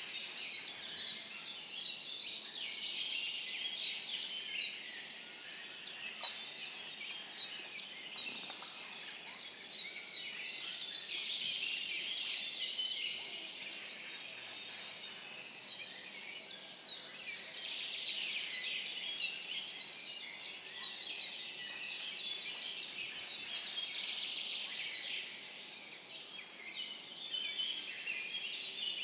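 Several woodland songbirds singing over one another in short, repeated phrases and chirps, loudest in the first half.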